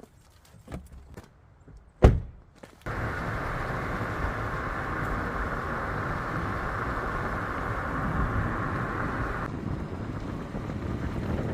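A few light knocks, then a car door slams shut about two seconds in. A steady rushing noise starts just after and runs on, easing a little near the end.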